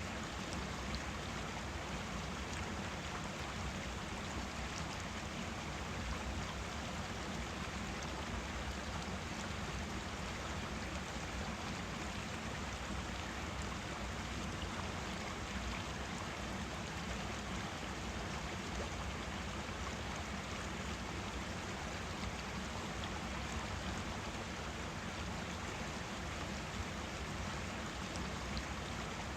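Forest stream flowing, a steady rushing and babbling of water that holds even throughout.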